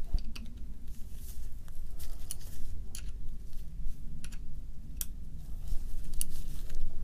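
Scattered light clicks and taps of small metal drill parts being handled and fitted, over a steady low hum.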